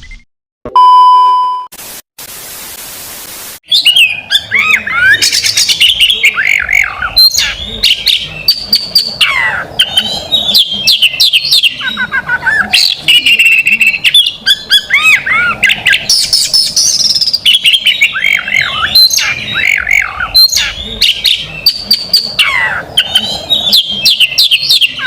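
Oriental magpie-robin (kacer) singing a loud, fast, varied song of chirps, whistled slides and sharp notes, with other birds' songs worked in. The song starts about four seconds in, after a short electronic beep and a burst of static hiss.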